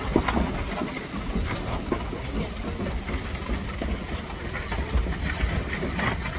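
A team of Percheron draft horses pulling a wagon past, with the wheels rumbling and clattering and the hooves clopping in a steady run of small knocks.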